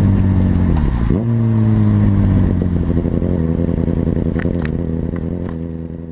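Kawasaki ZX-6R inline-four running through a Leo Vince exhaust with the dB-eater baffle removed: the engine note dips sharply and picks up again about a second in, then from about halfway it settles into irregular popping and crackling from the open exhaust as the revs ease off, fading out at the end.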